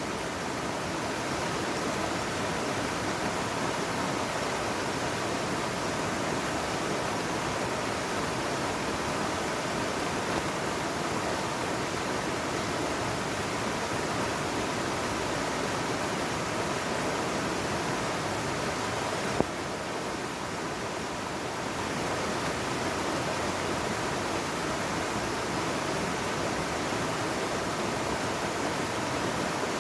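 Mountain valley stream, its water rushing steadily. A single click about two-thirds of the way through, after which the rush is slightly quieter for a couple of seconds.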